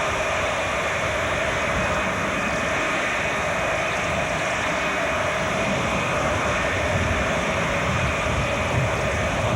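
Boeing 707 jet engines running steadily: an even rushing noise with a steady whine through it, unchanging in level.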